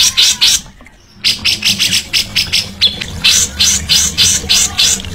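A songbird's rapid, harsh chattering song: a quick string of short scratchy notes, about four a second, broken by a short pause about a second in.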